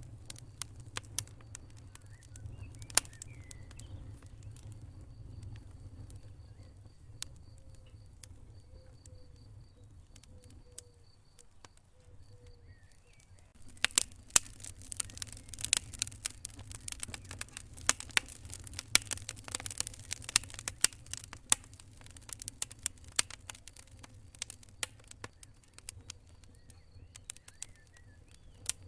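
Wood fire crackling in a fireplace: scattered sharp pops at first, turning into dense, rapid crackling about halfway through, over a steady low rumble of the burning fire.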